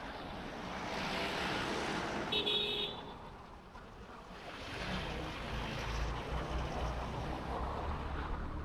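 Motorbike riding through city street traffic: a steady rush of engine and road noise, with a short high beep about two and a half seconds in and a deeper rumble building after about five seconds.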